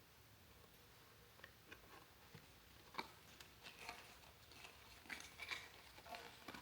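Faint, scattered clicks and light rustling of hands fastening a card tag onto the handle of a wooden pizza peel, starting about a second and a half in, with the sharpest click about halfway through.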